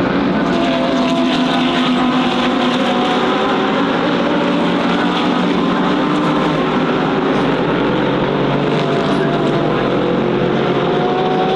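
Engines of a field of DTM GT3 race cars running around the circuit: a dense, steady drone with several engine notes slowly shifting in pitch.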